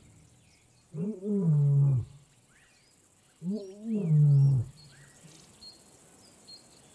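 Lion roaring: two long, deep calls about two seconds apart, each rising and then falling in pitch. Faint bird chirps can be heard behind them.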